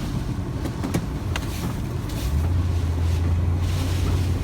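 Vehicle engine and road noise heard from inside the cab while driving, a low drone that grows stronger a little after two seconds in, with a few light clicks near the start.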